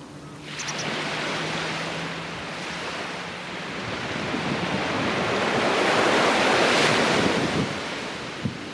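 Surf breaking on a sandy beach: the wash of a wave swells in, builds to its loudest about two-thirds of the way through, then eases off. Light wind on the microphone is mixed in.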